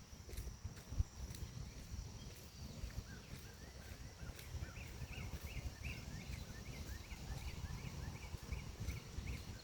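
A forest bird repeating a short chirp about three times a second through the second half, over a steady high insect buzz and low wind rumble on the microphone. There is one sharp knock about a second in.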